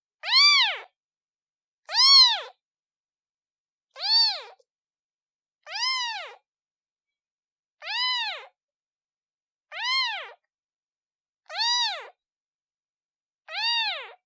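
Newborn kitten meowing over and over, calling for its mother: eight meows about two seconds apart, each rising then falling in pitch, with silence between.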